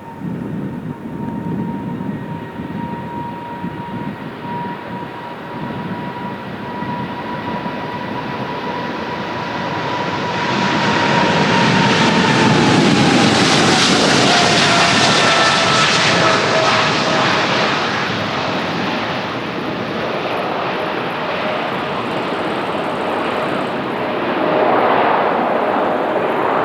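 Boeing 777's GE90 turbofan engines at takeoff power. A steady high whine runs over a loud rushing noise that swells about ten seconds in. As the jet passes, the whine drops in pitch and the engine noise stays loud.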